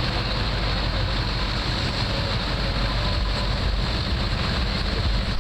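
Wind buffeting the microphone outdoors: a steady rushing noise with a heavy, fluctuating low rumble.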